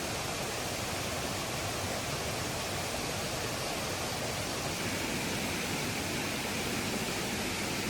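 Steady rushing water noise, an even hiss with no distinct drops, cracks or knocks.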